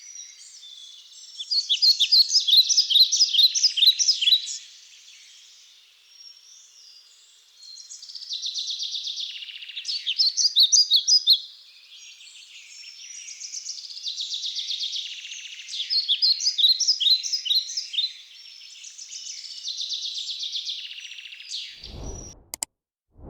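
Birds singing and chirping. Loud bursts of rapid repeated notes come every few seconds, with softer continuous calling between them. A short low rumble comes near the end.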